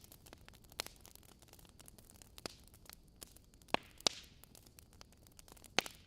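Wood fire in a fireplace crackling steadily, with a few sharper pops from the burning logs. The loudest pops come about four seconds in, one followed by a brief hiss.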